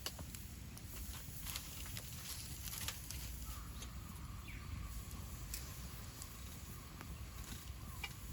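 Wood campfire crackling, with scattered sharp pops over a low rumble. From about three seconds in, a faint steady high tone is held for several seconds beneath the crackle.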